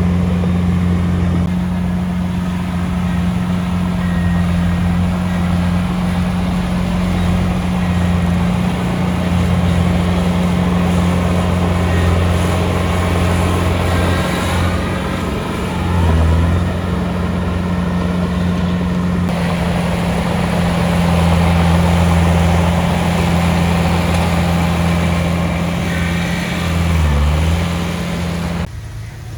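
Heavy-equipment diesel engine running steadily with a deep, even drone. Twice, about halfway through and again near the end, the engine note dips briefly. The sound drops off abruptly just before the end.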